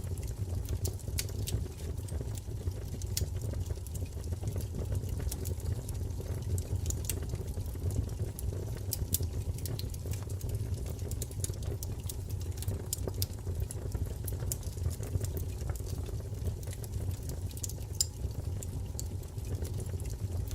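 Wood fire crackling, with scattered sharp crackles over a steady low rumble.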